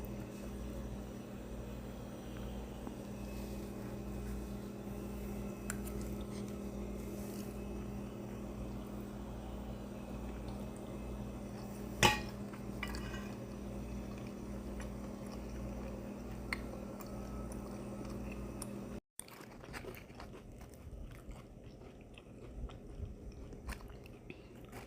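A person chewing and crunching food over a steady low hum, with one sharp click about halfway through.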